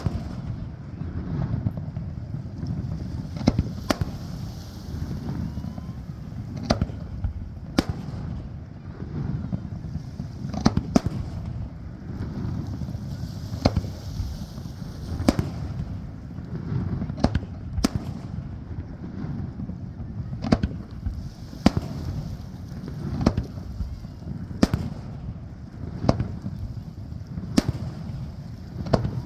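Aerial fireworks shells bursting in a display: about twenty sharp bangs at uneven intervals, one every second or two, over a steady low rumble.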